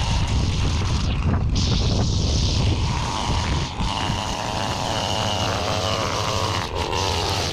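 Small gasoline engine of a handheld yard-work power tool running steadily, its pitch wavering slightly as the throttle shifts.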